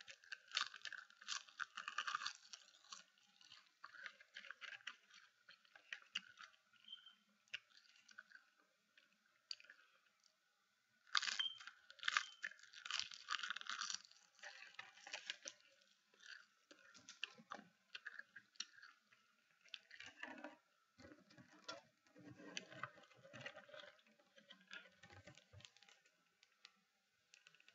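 Close-up crunching and chewing of a crisp seasoned seaweed snack, in bursts, with a fresh crunchy bite about eleven seconds in. Near the end come lower sounds of drinking from a plastic water bottle.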